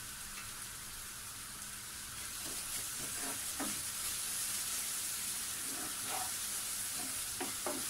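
Onion and spice paste frying in oil in a nonstick pan with freshly added grated coconut, a steady sizzle. From about two and a half seconds in, a wooden spatula stirs and scrapes through it in short strokes, and the sizzle gets a little louder.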